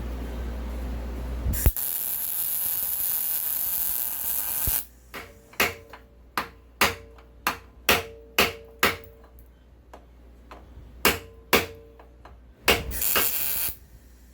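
Hammer striking steel, about a dozen sharp blows over some seven seconds, each leaving a short metallic ring, during metal repair of a rusted upper control arm mount. A steady hiss of about three seconds comes before the blows, and a second short hiss comes near the end.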